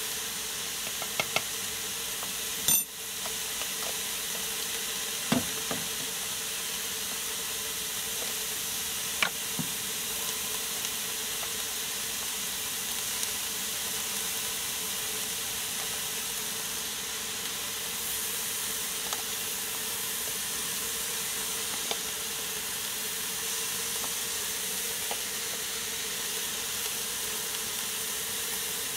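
Chopped vegetables sizzling steadily in an Instant Pot's steel inner pot, with a few sharp clinks of a metal spoon, the loudest about three seconds in.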